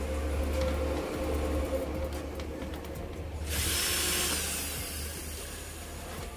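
A small power tool, of the drill or electric-screwdriver kind, running with a steady low hum. About three and a half seconds in there is a louder, hissy burst lasting roughly a second, which then fades.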